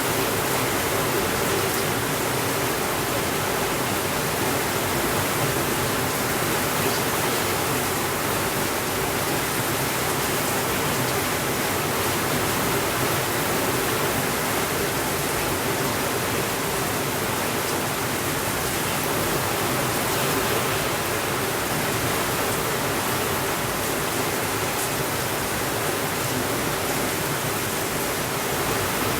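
Steady rain falling, an even hiss with no thunder and no sudden changes.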